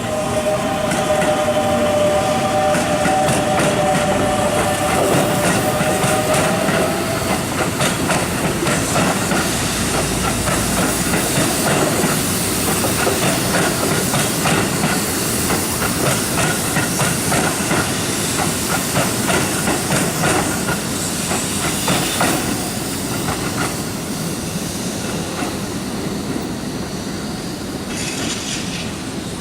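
Keihan electric train running through the station. A steady high whine is heard for the first several seconds, then the wheels clatter over the rail joints, easing off a little near the end.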